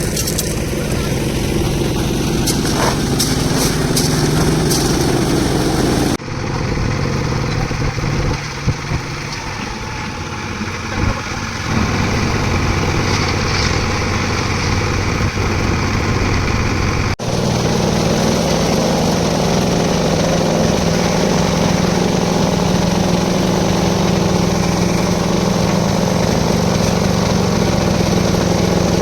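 Concrete mixer's engine running steadily, with two abrupt cuts about six and seventeen seconds in where the sound shifts to a new take.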